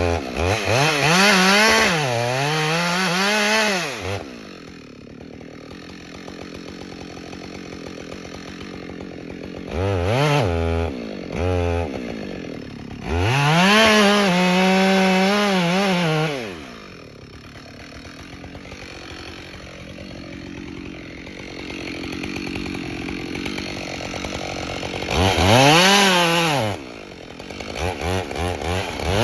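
Two-stroke chainsaw throttled up to full revs in several bursts, dropping back to idle between them.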